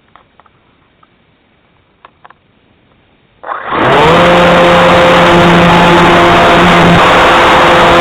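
A few faint clicks against quiet. Then, about three and a half seconds in, a loud, steady drone of a Cessna 182's piston engine and propeller heard inside the cabin starts suddenly, with a steady hum and its pitch rising slightly as it begins.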